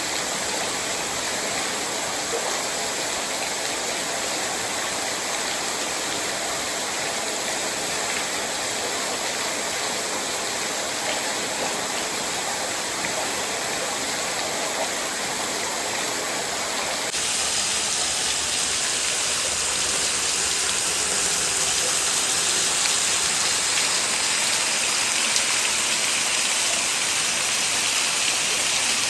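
Small waterfall splashing down over rock ledges, a steady rush of falling water. About 17 s in the sound turns brighter and more hissing and stays a little louder.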